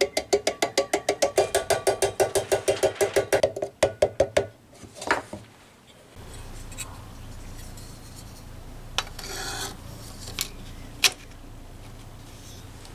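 A fast run of light hammer taps on thin ringing sheet metal, about eight a second, stopping about four and a half seconds in. After that comes a low steady hum, with a few single clicks and a short scrape.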